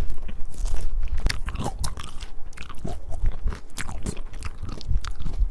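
Someone eating a crisp peach, biting and chewing: a quick, irregular run of short, sharp crunches, several a second.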